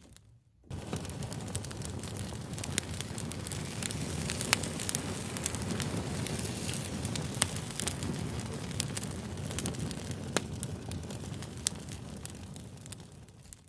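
Crackling fire: a steady low rumble of burning wood with frequent sharp pops and snaps. It comes in suddenly after a brief silence about half a second in and fades out near the end.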